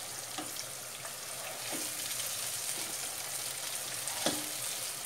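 Steady sizzling of hot fat as fried meatballs are scraped with a spatula from a frying pan into a pot of cooking spinach, with a few light knocks of the spatula on the pan, the sharpest about four seconds in.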